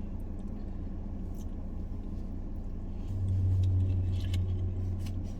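Parked car idling with its air conditioning running: a steady low hum that swells louder about three seconds in and eases back near the end, with a few faint small clicks over it.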